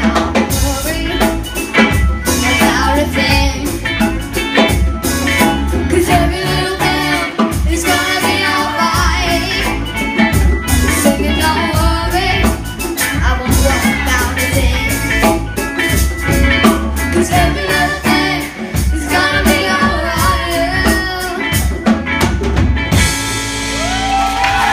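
Live performance of a choir singing with a band, a drum kit keeping a steady beat under the voices. Near the end the music changes to a held closing chord.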